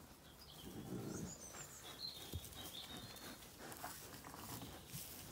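Faint high bird chirping in short wavering phrases. Under it there is soft rustling, and a single light knock comes a little after two seconds in.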